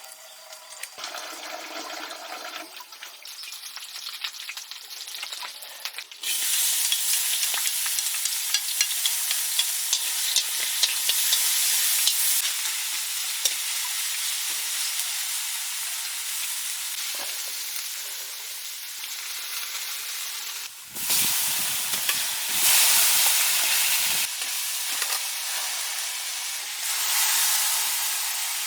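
Food frying in a hot pan, a steady sizzle that starts suddenly about six seconds in, with stirring.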